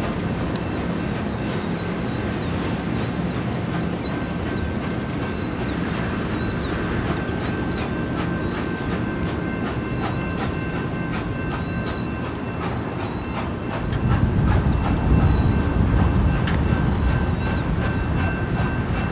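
Passenger train cars rolling away on the rails, the wheels clicking over rail joints, with scattered high squeaks and a thin steady high squeal. A louder low rumble comes in about 14 seconds in.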